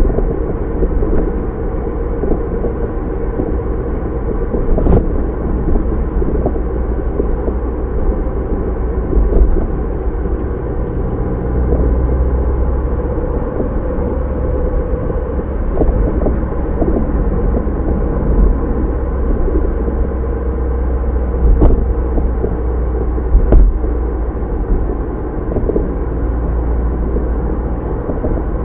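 A car being driven, with steady engine and tyre drone. A few short, sharp knocks come through, spread over the stretch.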